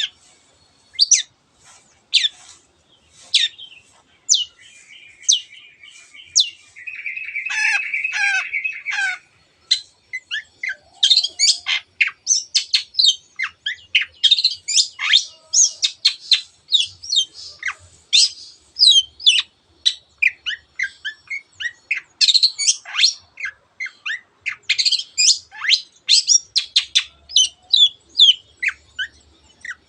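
Long-tailed shrike (cendet) singing. It opens with single sharp falling notes spaced about a second apart, gives a harsh buzzy chatter about seven to nine seconds in, then breaks into a fast, unbroken stream of varied notes.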